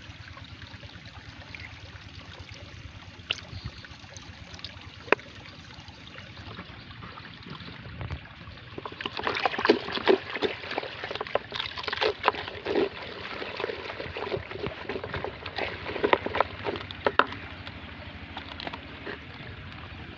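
Water trickling and sloshing, with a stretch of loud, choppy splashing in the middle that settles back to a steady trickle near the end.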